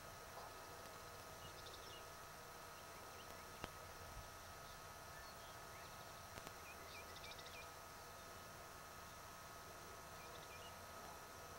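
Near silence in an open field: faint bird chirps in a few short groups over a low hiss, with a thin steady tone underneath and a single click about four seconds in.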